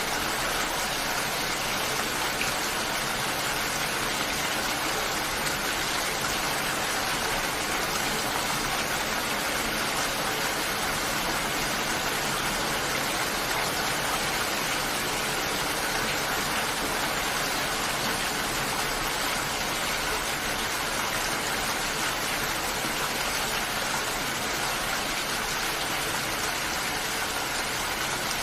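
Steady, even rain falling, a continuous hiss of water with no breaks or distinct drops standing out.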